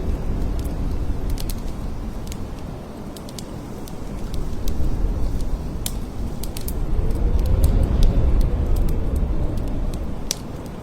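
Blizzard wind rushing and gusting in deep swells. It eases about three seconds in, then builds to its strongest gust near eight seconds with a faint howling whistle that rises and falls. Scattered sharp ticks sound over the wind throughout.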